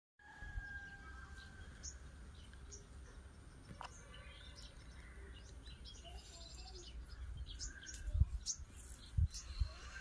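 Birds calling and chirping outdoors, with one long whistled note near the start and scattered short chirps after it. A low rumble runs underneath, with a few louder low thumps on the microphone near the end.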